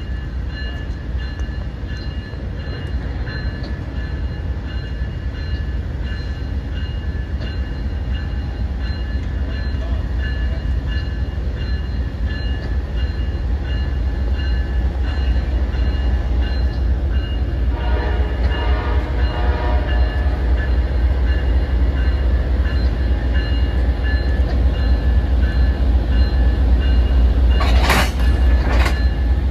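A train rumbling and growing steadily louder as it comes closer, with steady high-pitched whining tones above the rumble. A short horn sounds about two-thirds of the way through, and two sharp clanks come near the end.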